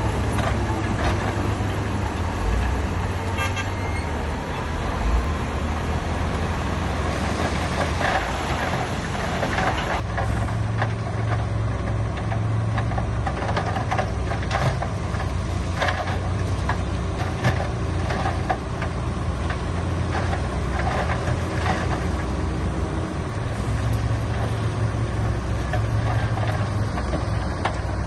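Diesel engines of heavy earthmoving machinery running steadily, with scattered knocks and clanks.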